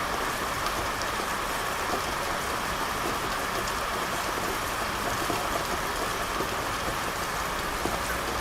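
Steady rain falling on a street: an even, unbroken hiss with scattered individual drops ticking.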